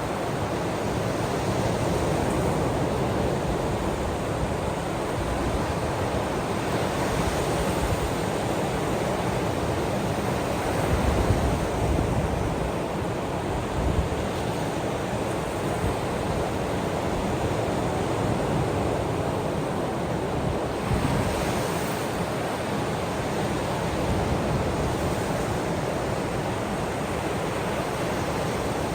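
Ocean surf washing in steadily as a dense, even rush, with a few slightly louder surges.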